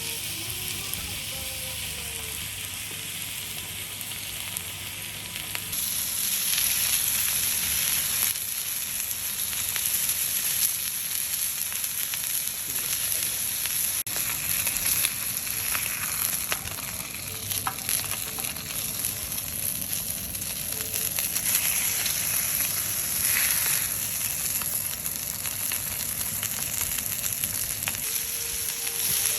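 Food frying and sizzling, a steady hiss that grows louder about six seconds in.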